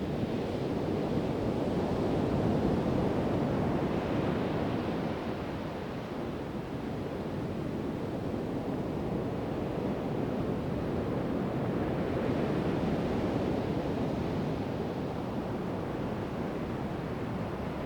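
Pacific Ocean surf: waves breaking and washing up the beach in a steady rush, swelling twice as sets come in.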